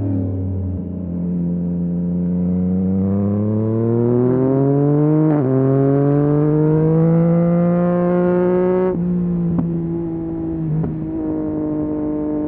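2023 Yamaha MT-09 SP's three-cylinder engine through a full Akrapovic race exhaust, accelerating with the pitch rising. About five seconds in there is an upshift and it climbs again, then about nine seconds in the throttle closes and the engine drops to a lower, steady note.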